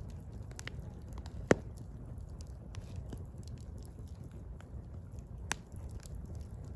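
Firewood burning: a steady low rumble of the fire with scattered small crackles. A loud sharp pop comes about a second and a half in, and a smaller pop about two-thirds of the way through.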